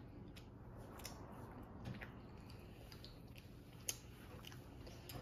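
A child chewing quietly, with faint scattered clicks and taps from handling a plastic sushi tray; one sharper click about four seconds in.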